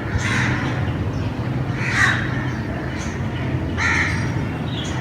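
Crows cawing: three short, harsh caws about two seconds apart, over a steady low hum.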